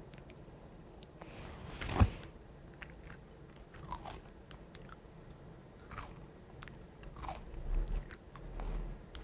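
Crunchy Chex Choco green-onion-flavour cereal being bitten and chewed dry: a loud crunch about two seconds in, then fainter crunching chews every second or two.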